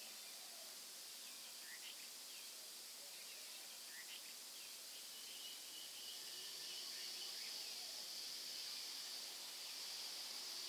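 Faint tropical forest ambience: a steady high insect drone that grows louder about halfway through, with scattered short bird chirps and whistles.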